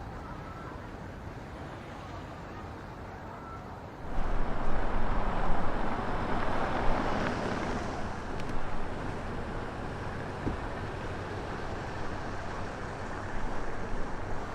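Blizzard wind buffeting an unprotected microphone: steady street noise gives way about four seconds in to loud, gusty wind rumble that stays up to the end.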